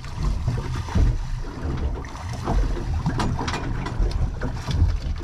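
Wind buffeting the microphone on a small boat, an uneven low rumble, with scattered short clicks and knocks of handling.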